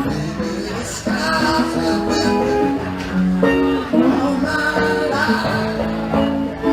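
A band playing live, with held notes and chord changes and no pauses.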